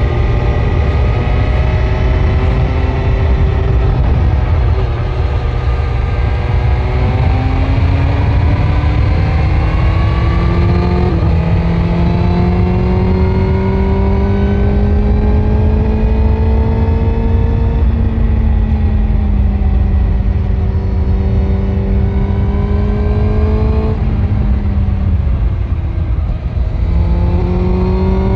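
BMW S1000RR's inline-four engine through an Akrapovic exhaust, under way, its note rising and falling with the throttle: a sudden step in pitch about eleven seconds in, a drop off the throttle near twenty-five seconds, then rising again. Steady low wind rumble on the microphone underneath.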